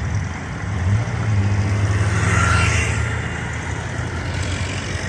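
Car engine running with a steady low note that grows louder from about one to three seconds in, with a rush of road noise peaking near the middle as the car passes.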